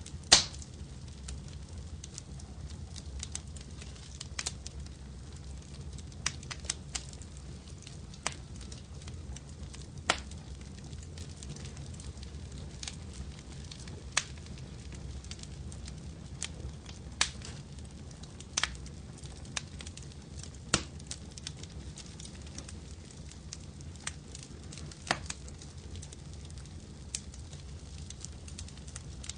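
Fireplace fire crackling: irregular sharp pops and snaps over a low steady rumble, the loudest pop about half a second in.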